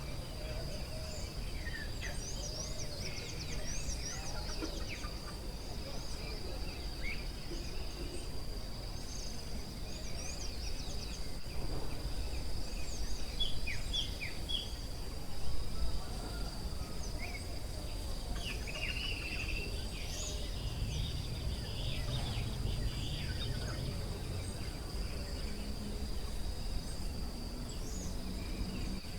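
Forest ambience: a steady high insect drone with many short bird chirps and calls scattered throughout, over a low background rumble.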